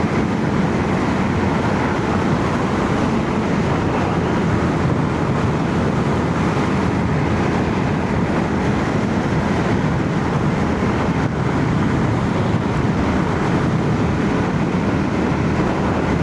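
Royal Enfield Shotgun 650 parallel-twin engine cruising steadily at motorway speed, heard from inside a full-face helmet under steady wind and road noise.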